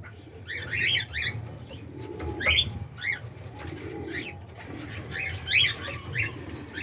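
Caged cockatiels chirping: short rising-and-falling chirp calls in clusters, five or six times, with two soft low coos about two and four seconds in.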